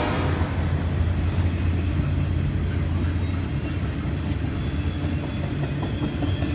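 Double-stack intermodal train's container-laden well cars rolling past: a steady low rumble of steel wheels on rail, with faint wheel clicks in the last second or two.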